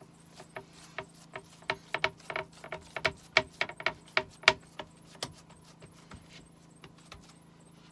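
A rapid, irregular series of light clinks and knocks, as of kitchenware being handled and set down, densest in the middle and thinning out near the end. A low steady hum runs underneath.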